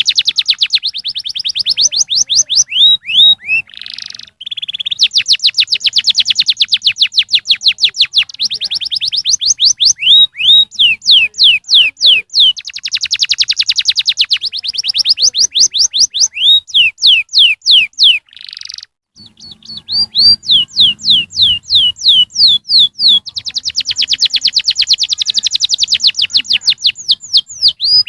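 Domestic canary singing: long, fast trills of repeated downward-sweeping notes, phrase after phrase, with a couple of brief pauses.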